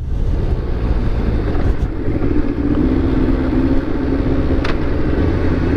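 Yamaha FZ1's inline-four engine running at a steady cruise, with heavy wind rush over the helmet microphone.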